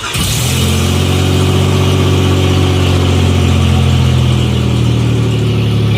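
A 2002 Nissan Xterra's supercharged 3.3-litre V6 catches from a cold start and runs at a steady fast idle, its pitch easing slightly lower. The exhaust is open at the manifolds, with no pipes or muffler after them.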